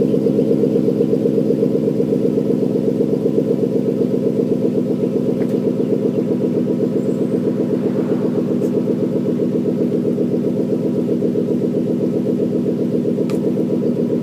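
2014 Ford Mustang GT's 5.0-litre V8 idling on a cold start through a Roush axle-back exhaust, with no revving; a steady, even exhaust pulse.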